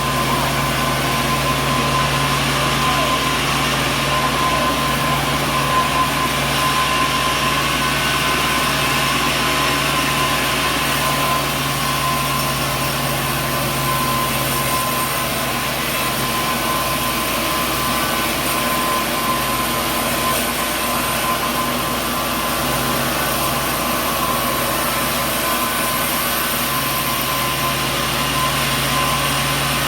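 Sawmill machinery running steadily: a constant mechanical hum with a thin, steady whine over it, unchanging throughout.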